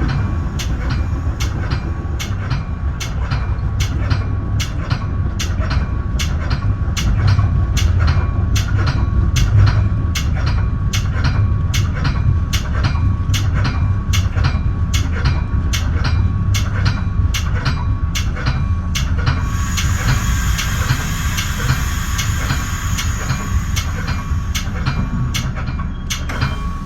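Metra bi-level commuter train rolling, heard from inside the front car: a steady low rumble with a regular click about twice a second. About twenty seconds in, a high squeal joins as the train slows for a station stop.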